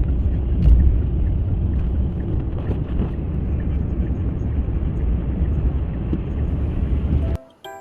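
Steady low rumbling noise, like a vehicle in motion, that cuts off suddenly near the end.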